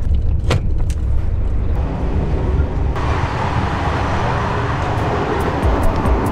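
Moving sleeper train carriage running along the track: a steady low running noise with a sharp click about half a second in as the cabin door handle is worked. From about three seconds in, a louder rushing noise of the moving train joins it.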